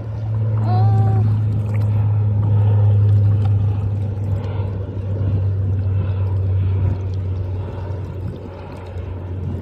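A boat's engine running steadily as a low hum, fading over the last few seconds.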